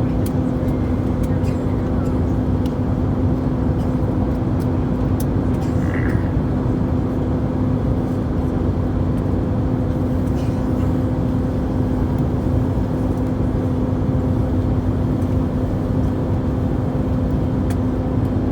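Steady airliner cabin noise inside an Airbus A321 on approach: the rush of air and engine noise with a constant low hum underneath.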